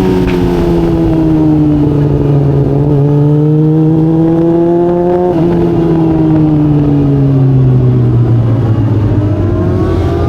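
Yamaha R6's inline-four engine running hard on track, its pitch falling as it slows, rising again under acceleration, with a sudden step about five seconds in and a long fall before climbing again near the end.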